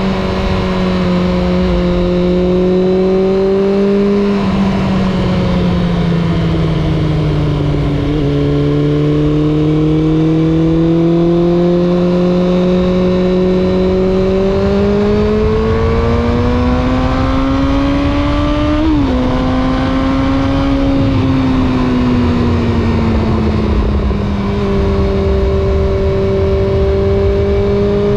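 Suzuki GSX600F inline-four motorcycle engine and exhaust under way, its note falling and rising with road speed. About two-thirds of the way through the rising note drops suddenly at an upshift, then falls away, and it steps up again near the end.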